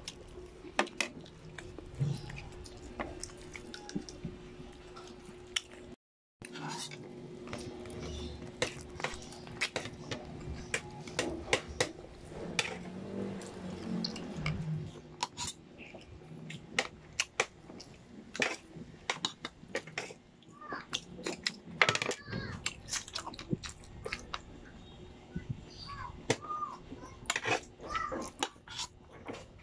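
A person chewing cooked chicken feet close to the microphone, with many wet smacks and clicks of the mouth, over a steady low hum.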